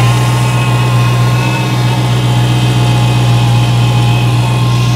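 Dodge Challenger Hellcat's supercharged 6.2-litre HEMI V8 idling steadily, with steady whining tones above the engine note. It is running so that the freshly replaced power steering pump can be filled with fluid and checked.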